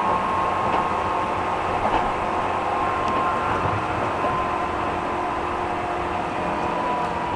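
A JR 205 series electric train running between stations, heard from inside the passenger car: a steady rumble of wheels on rail, with a faint whine that drifts slowly lower in pitch.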